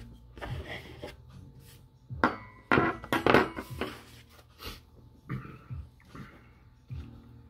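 Mukbang eating sounds: close-up chewing with irregular clinks and scrapes of cutlery on a plate, loudest in a cluster about two to four seconds in.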